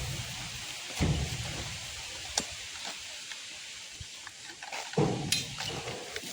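Rain falling steadily, heard as an even hiss. A few dull thumps and sharp clicks break in, one about a second in and another about five seconds in.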